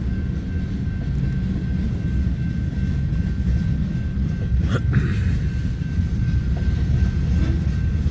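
Freight cars, gondolas among them, rolling past on the rails: a steady low rumble of wheels, with one sharp metallic clank about five seconds in.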